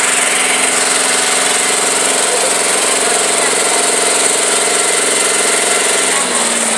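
Tractor engine running steadily at a low, even speed. Its pitch drops slightly near the end.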